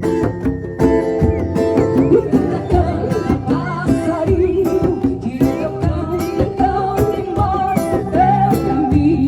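A band playing a song: acoustic guitar with steady percussion, and a wavering, vibrato melody line carried above it.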